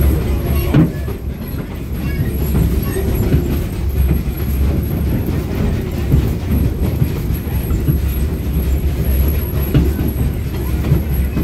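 Narrow-gauge tourist train running along the track, heard from an open-sided passenger car: a steady low rumble with frequent small knocks and clatter from the wheels on the rails.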